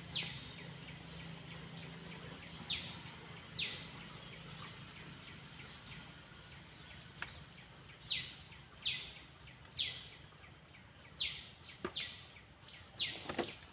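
A bird calling with short chirps that drop sharply in pitch, spaced irregularly and coming more often in the second half, over a faint steady high whine.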